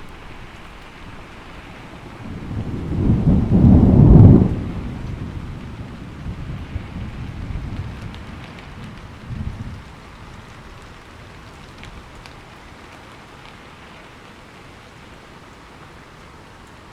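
Steady rain with a roll of thunder: a low rumble builds about two seconds in, peaks about four seconds in and breaks off. It then rolls on more faintly until about ten seconds in, leaving only the rain.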